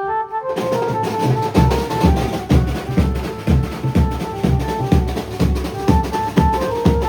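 Maharashtrian banjo band playing: a sustained melody line, then loud drums crashing in about half a second in and settling into a fast, steady beat, with a heavy bass drum joining about a second later.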